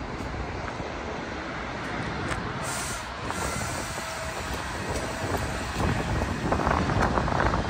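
Train rolling along the rails: a steady rumbling noise, with a run of sharp clicks starting near the end.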